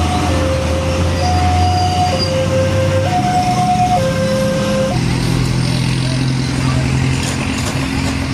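Heavy road vehicle engine running, overlaid for the first five seconds by a high-low two-note tone that alternates about once a second. After the tone stops, the engine's lower pitch carries on.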